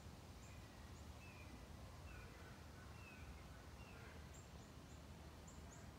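Near-silent outdoor ambience: faint distant birds, short high chirps now and then and a few thin whistled notes in the first few seconds, over a low steady rumble.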